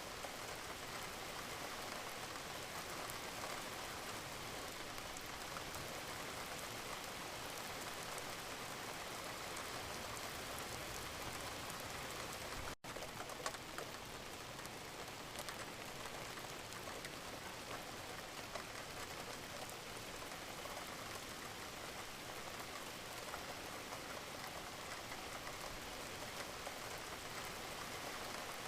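Steady rain falling, an even hiss with many small drop hits. The sound cuts out for a split second about halfway through, then carries on unchanged.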